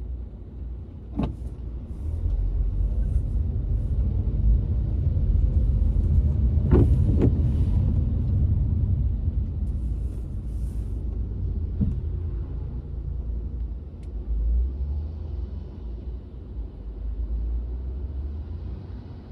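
Car driving, heard from inside the cabin: a steady low road rumble, with a few sharp knocks, two of them close together about seven seconds in.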